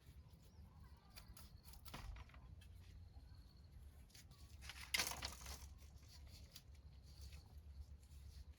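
Faint scattered rustles and clicks, with one louder brief rustle about five seconds in.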